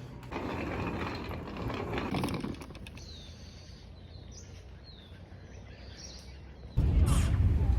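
Outdoor ambience with small birds chirping: several short, high, falling chirps in the quieter middle stretch. About seven seconds in, a loud low rumble cuts in suddenly.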